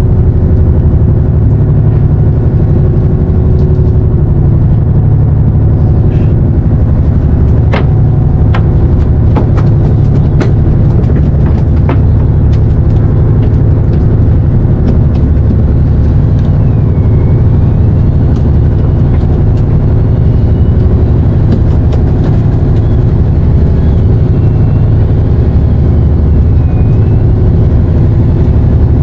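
Fishing boat's engine running steadily, a loud low drone, with a few sharp clicks about a third of the way in.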